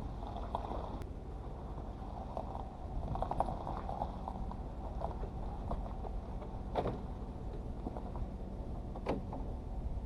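Chevrolet Silverado 1500 pickup's engine running steadily, with a few sharp knocks and rattles: a cluster about a third of the way in and two single ones later.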